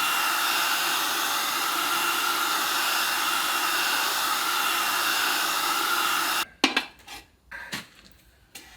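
A workshop tool blowing air with a steady hiss, switched off suddenly about six and a half seconds in, followed by a few light clinks and knocks of metal parts being handled.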